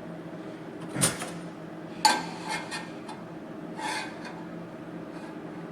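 Metal clinks and knocks as sheet-steel panel pieces and tools are handled on the bench: three sharp strikes about a second apart, the middle one loudest with a short metallic ring, over a steady low background hum.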